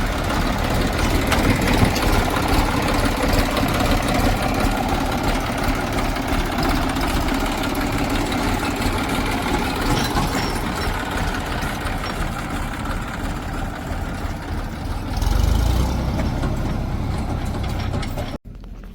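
Heavy diesel engine running steadily, with a deeper rumble swelling briefly about three-quarters of the way through; the sound cuts off suddenly just before the end.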